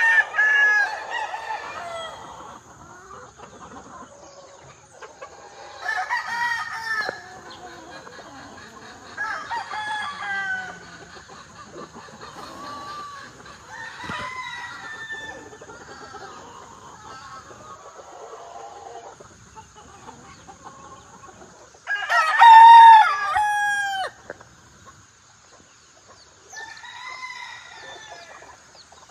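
Several Asil roosters crowing one after another, about six crows spaced a few seconds apart, with the loudest and closest about three-quarters of the way through.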